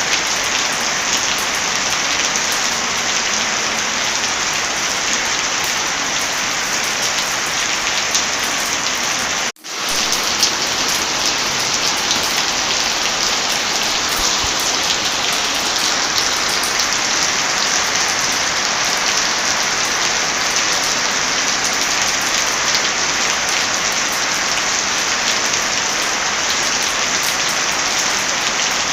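Heavy rain falling steadily, a dense even hiss with scattered small ticks. The sound cuts out for a split second about ten seconds in.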